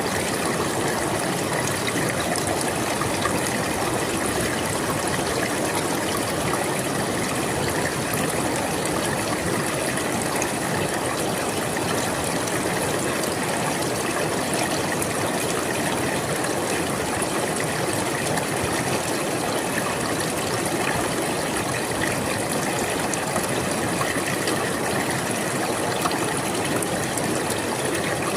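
River water flowing and babbling over stones in a steady rush, with fine splashing and trickling.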